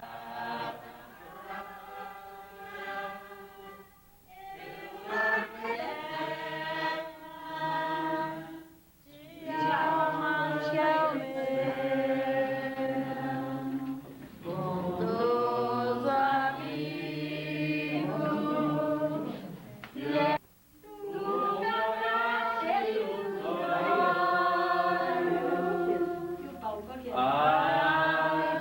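A group of voices singing a Catholic hymn together without accompaniment, in long held phrases with short breaths between them.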